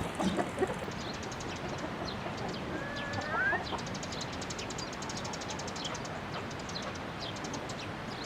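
Chickens clucking a few times, then one rising call about three seconds in, over a steady hiss with fast, faint high ticking.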